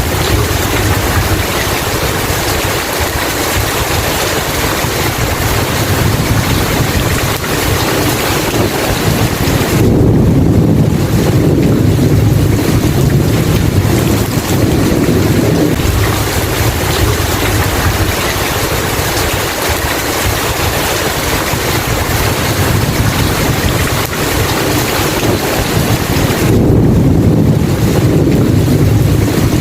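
Steady heavy rain, with low thunder rumbles swelling about ten seconds in and again near the end.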